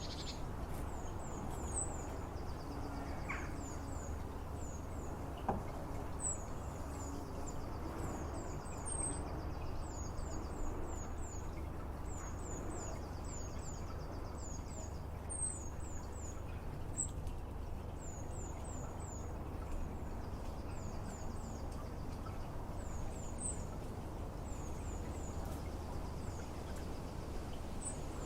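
A small songbird singing: high, thin notes in quick repeated phrases every second or two, over a steady low rumble.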